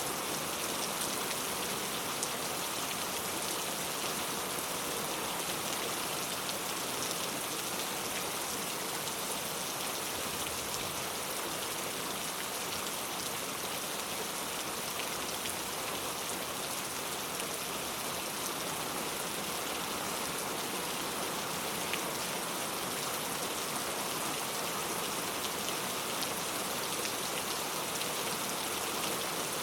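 Heavy rain falling and pattering on surfaces in a steady downpour, with scattered drop ticks and no thunder.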